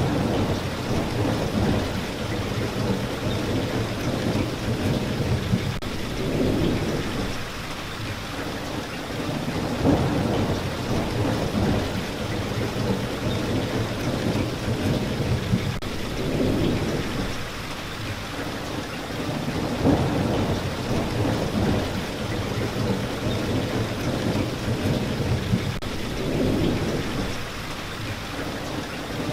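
Steady rain falling, with deep rumbles that swell and fade every few seconds.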